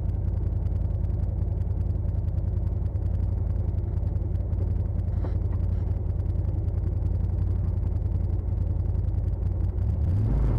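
CFMoto side-by-side UTV engine and drivetrain running at low trail speed, heard from on board as a steady low rumble that gets a little louder near the end.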